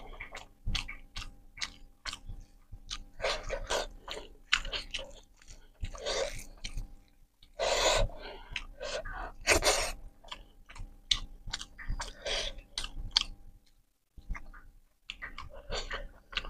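Close-up mouth sounds of a person eating rice and egg curry: wet chewing and lip smacks throughout, with a few loud breaths drawn through the mouth about 6, 8 and 9.5 s in, taken against the burn of king chilli.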